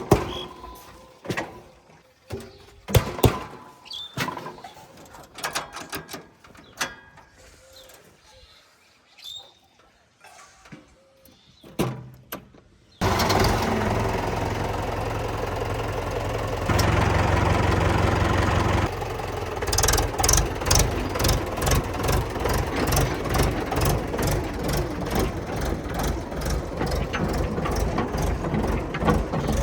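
Scattered clicks and knocks, then, starting abruptly about 13 seconds in, a tractor engine running loud. From about 20 seconds in it settles into a rapid, even chugging.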